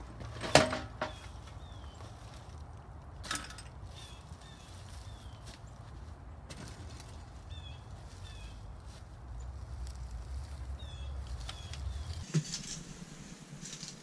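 Short falling bird chirps repeating every second or so over a low wind rumble. A sharp knock comes about half a second in and another clunk about three seconds in as a bicycle is handled in dry leaves. Near the end the outdoor sound cuts off to quiet room tone.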